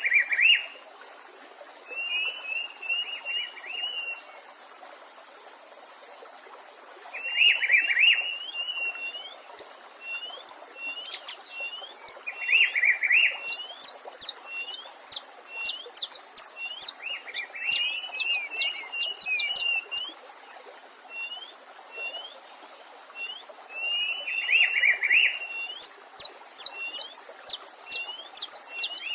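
Several songbirds singing over a steady faint stream. One bird repeats a short phrase of hooked whistled notes every few seconds. Another gives long runs of rapid, very high notes in the middle and again near the end.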